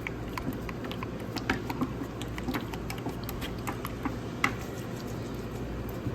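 A wooden stick stirring paint in a plastic bucket: irregular light knocks and scrapes of the stick against the bucket's sides.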